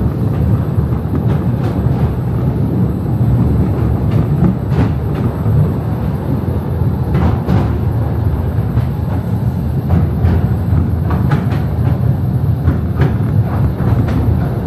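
Small electric Mail Rail train running through its narrow tunnel: a steady loud low rumble from the wheels and motors, with sharp clacks every second or two as the wheels cross rail joints.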